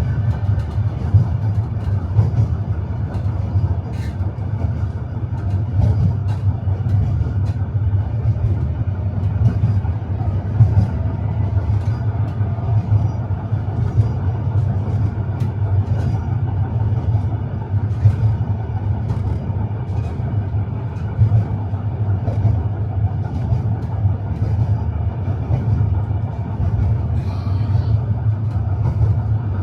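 Tram running along its rails, heard from inside the car: a steady low rumble of wheels and running gear, with irregular clacks and knocks as the wheels cross rail joints and track pieces.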